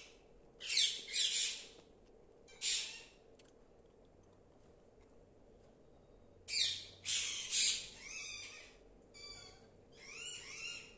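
Parrots squawking: harsh, screechy calls in short bursts, a few in the first three seconds, then after a pause a quick run of several more calls to the end.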